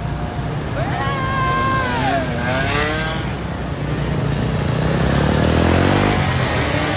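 Car engine and road rumble, with the engine accelerating and rising steadily in pitch from about four and a half seconds before it drops off just after six seconds. A high tone slides down in pitch about a second in.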